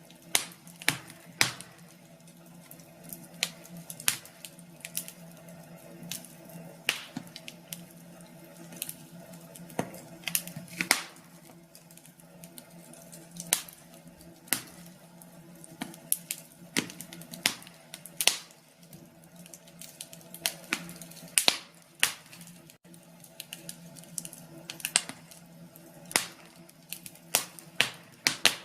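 Wood fire crackling, with irregular sharp pops and snaps of burning logs, some much louder than others, over a faint steady low hum.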